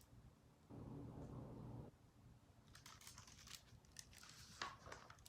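Near silence, with faint paper rustles and a few light clicks from a hardcover picture book's pages being handled.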